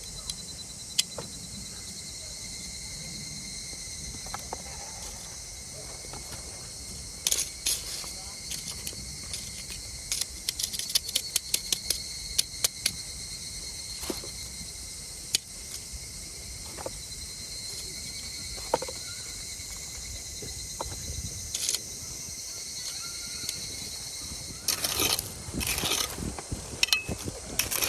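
Crickets and other night insects trilling steadily in a high, even chorus. Scattered sharp clicks run through it, quickening into a rapid string in the middle, and a few louder rustling knocks come near the end.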